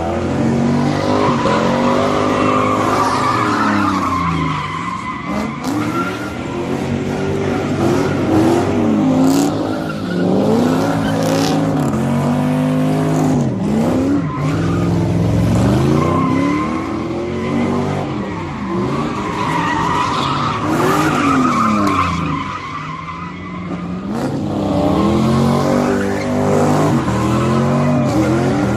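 A car spinning donuts at a street sideshow: the engine revs up and down over and over, every couple of seconds, while the tyres squeal and skid.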